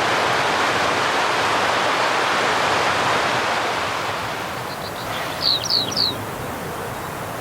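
Steady rush of a mountain stream that eases off about halfway through. Three quick high chirps from a bird come near the end.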